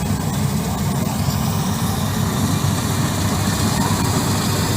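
Combine harvester's engine running steadily with a low, heavy drone.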